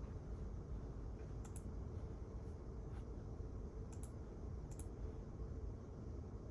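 A few scattered keyboard keystrokes, single light clicks and quick pairs, over a steady low room hum with a faint steady tone.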